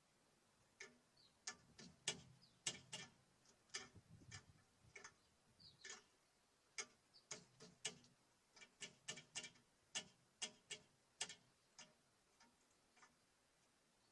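Birds at a wooden bird feeder: irregular sharp taps and clicks of pecking at seed, a few a second, with a few short high chirps.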